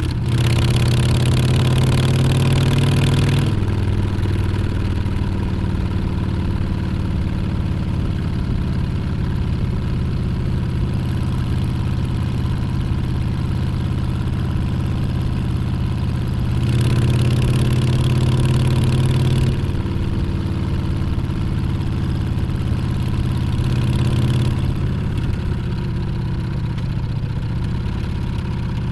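Harley-Davidson Street Bob 114's V-twin engine under way: its pitch rises under throttle for the first few seconds, then it eases off to a lower, steady beat. It pulls up again about two-thirds of the way through and briefly once more near the end.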